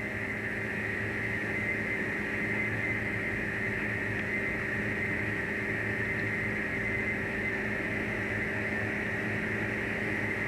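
Fishing boat's engine and machinery running steadily: a constant drone with several unchanging tones.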